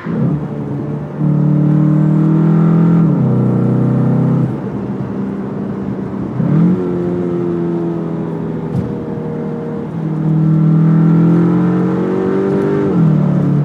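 The Cupra Formentor VZ's turbocharged 2-litre four-cylinder engine accelerates hard. Its note climbs and falls back sharply at the gear changes, several times over.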